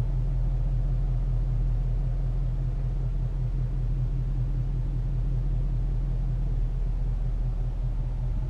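Ford Mustang's Coyote 5.0-litre V8 idling steadily, heard from inside the cabin as a low, even rumble.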